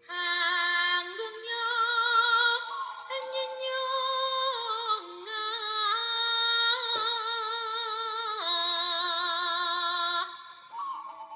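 Music: a woman's singing voice holding long, wavering notes that shift in pitch every second or two, dropping away briefly near the end.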